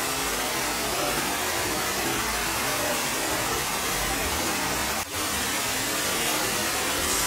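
Steady rain shower falling, a dense even hiss with a brief dip about five seconds in.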